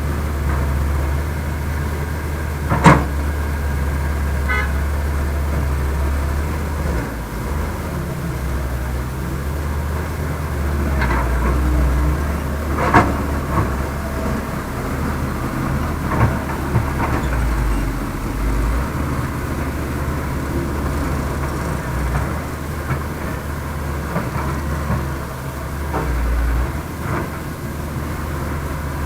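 Diesel engines of heavy earth-moving machinery running steadily, with a few sharp knocks or clanks, the loudest about three seconds in.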